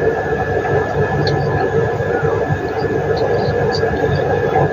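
Loud steady background rumble and hiss, strongest low down, with a constant thin high tone running through it.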